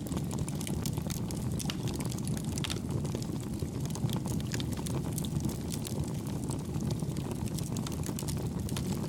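Wood campfire burning with a steady low rumble and many small, irregular crackles and pops.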